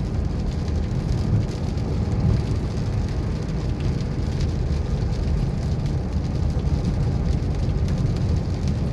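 Steady heavy rain mixed with a constant low rumble of vehicle and road noise.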